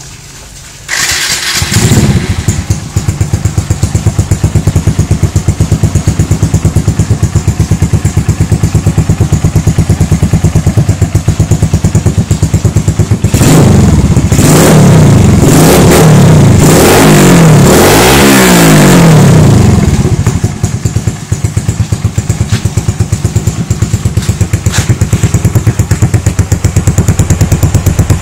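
Suzuki Shogun SP motorcycle engine through an aftermarket Endurance exhaust, starting about a second in and idling with an even pulse. In the middle it is revved up and down several times, then drops back to idle.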